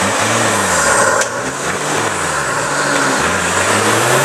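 Nissan Patrol GR's engine revving up and down over and over as it works the 4x4 through a deep mud rut. There is a sharp click about a second in.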